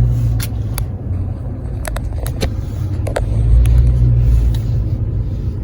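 Pickup truck engine running at low speed, heard as a steady low rumble from inside the cab, with a few short sharp clicks over it.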